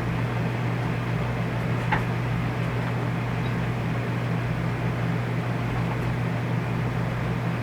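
RV rooftop air conditioner's fan running with a steady hum and airflow rush. A light click comes about two seconds in.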